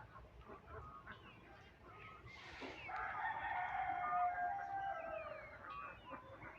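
A rooster crows once: a long held call starting about three seconds in that sags slightly at the end. Short chirps and squawks from other birds come before and after it.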